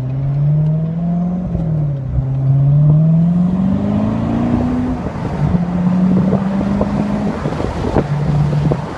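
Chevrolet Corvette C7 Stingray's 6.2-litre V8 exhaust under moderate acceleration, heard from the open-top cabin: the engine note climbs, drops at a gear change about two seconds in, climbs again, then holds steady at cruise with a short lift off the throttle near the end.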